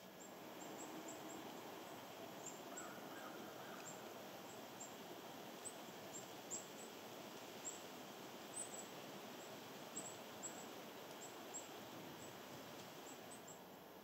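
Outdoor nature ambience: a steady hiss with many brief, very high, thin call notes from small birds, scattered irregularly throughout.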